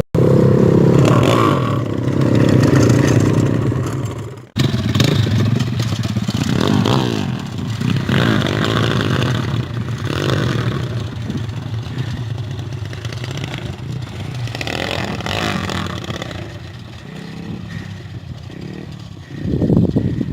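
Enduro dirt bike engines running and revving up and down, with clattering and scraping over the ride. The sound breaks off sharply for a moment about four and a half seconds in.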